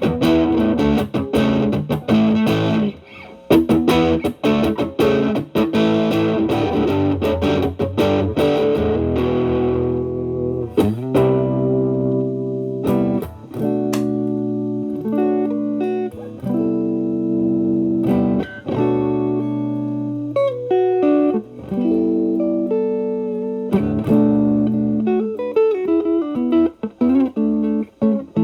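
Overdriven electric guitar: a Stratocaster through the Xotic BB Plus preamp, with channel A boosting channel B, into a Marshall Valvestate amp. Quick picked runs for about the first ten seconds, then slower held notes and bends.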